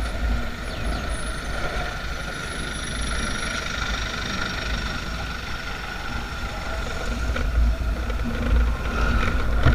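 Motorcycle riding along, a steady mix of engine and road noise over a deep, continuous rumble.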